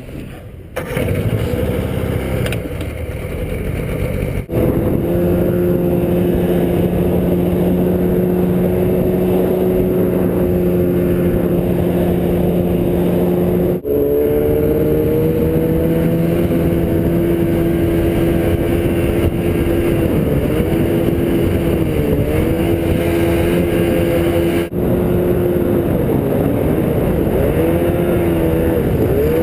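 Evinrude 50/35 jet outboard driving a small aluminium jet boat, running steadily at speed. The engine note dips briefly and recovers a few times as the throttle is eased. The sound breaks off abruptly for an instant three times.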